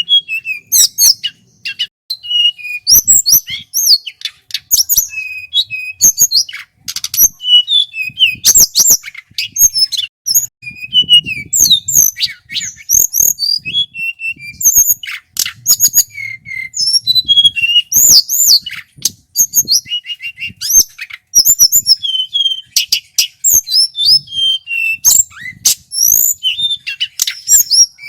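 Tledekan gunung (a small Javanese flycatcher) singing a long, loud, varied song of rapid high chirps, clear whistled notes and short sliding trills, almost without pause.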